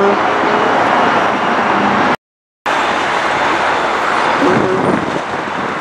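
Loud, steady jet aircraft engine roar, cut by a brief total dropout of about half a second about two seconds in.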